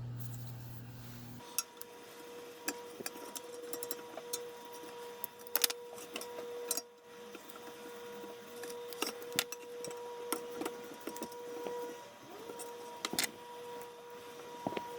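Scattered light metallic clicks and taps from small parts and hand tools being handled as an antique electric fan is taken apart, over a steady faint hum. A lower hum stops abruptly about a second and a half in.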